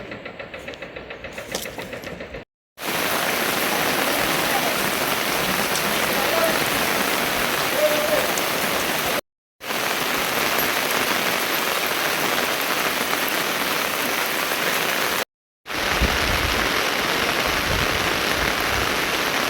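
Heavy, steady rain falling, heard in three stretches split by short silent breaks. It is preceded for the first two seconds or so by a quieter rhythmic clatter.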